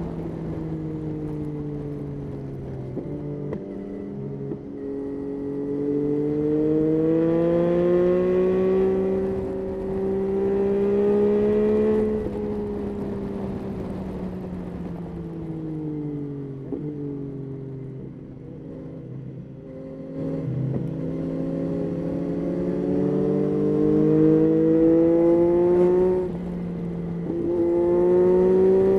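Yamaha Tracer 9's 890 cc inline-three engine pulling through the gears while riding. The revs climb and drop sharply at each gear change, ease off in the middle while slowing, then climb again through more shifts near the end.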